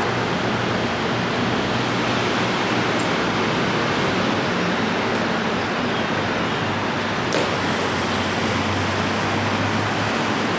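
Steady, even hiss of rain falling, with a few faint ticks.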